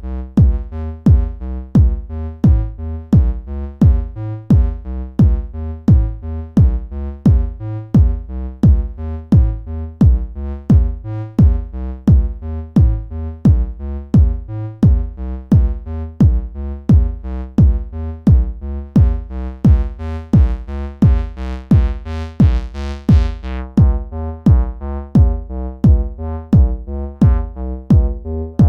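Electronic music from a synthesizer and drum machine: a steady beat about twice a second under a repeating bass and synth pattern. About twenty seconds in the sound brightens as a filter sweeps open, then closes again.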